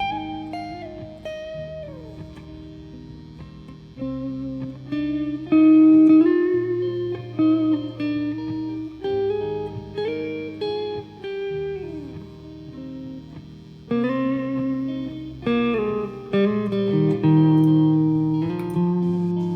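Background music led by a plucked guitar playing a melody, some notes sliding in pitch, over a low sustained accompaniment.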